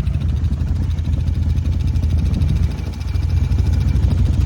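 Off-road vehicle engine running steadily at low speed, with a brief dip in level about three seconds in.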